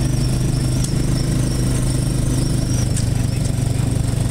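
A small engine running steadily at an even speed, with a thin high whine over it.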